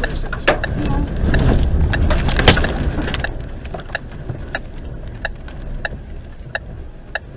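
Gusting wind rumbling heavily for about three seconds, with a loud knock about two and a half seconds in, then easing. A regular ticking sounds about one and a half times a second throughout.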